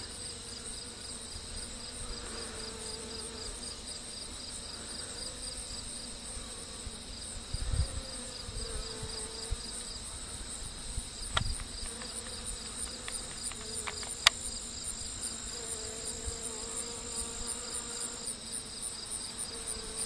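Insects: crickets chirping in a steady, high, pulsing trill, with a lower buzz that wavers in pitch and comes and goes several times, as of bees flying near. A few sharp clicks, the loudest about fourteen seconds in.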